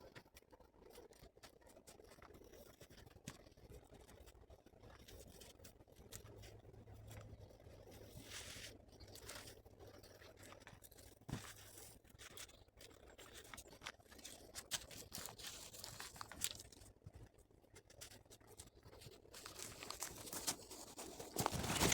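Faint, scattered crunches and scrapes, becoming busier and louder near the end.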